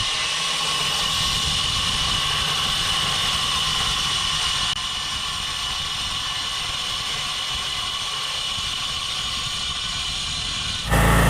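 Plasma cutter torch running steadily with a hiss and a high whine. Near the end a much louder machine with a low hum comes on suddenly.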